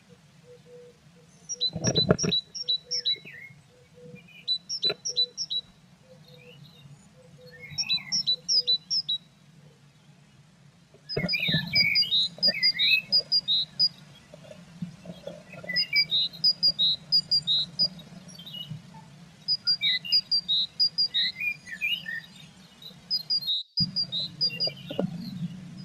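Blue tits chirping: runs of short, high, thin notes, spaced out at first and then nearly continuous from about halfway. Several sharp knocks and scrapes come from movement in the nest box, and a low steady hum sits underneath.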